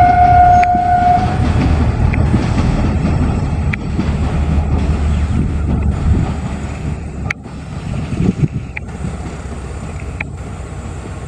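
Narrow-gauge goods train running on the 2 ft 6 in Kangra Valley line: the locomotive horn holds one steady note that ends about a second in. After it, the low rumble of the wagons goes on with sharp clicks every second and a half or so, slowly fading as the train moves away.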